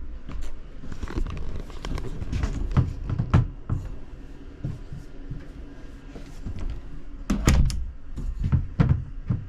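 Cupboard and cabinet doors in a truck camper being handled: a string of knocks, clicks and thuds from doors and latches. The loudest clatters come about three seconds in and again about seven and a half seconds in.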